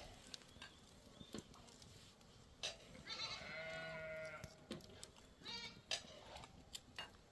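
Livestock bleating: one long, quavering bleat about three seconds in, then a shorter bleat a second later, with a few faint knocks.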